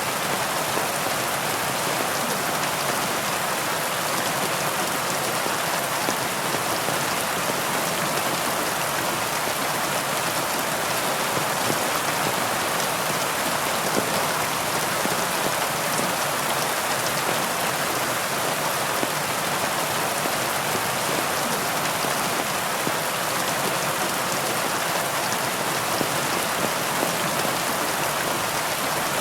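Heavy rain falling steadily: an even hiss of countless drops with scattered ticks of single drops, and hardly any low rumble.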